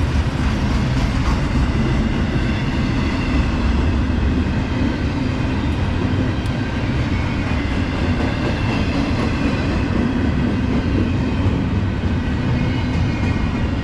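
Freight cars of a CSX intermodal train rolling past, a steady rumble of steel wheels on the rails.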